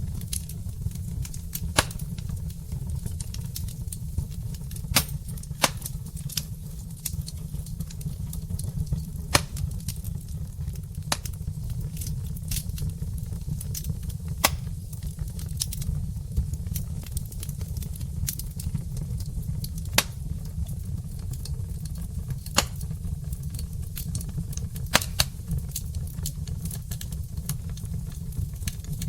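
Wood fire burning in a fireplace, crackling with irregular sharp pops every few seconds over a steady low rumble.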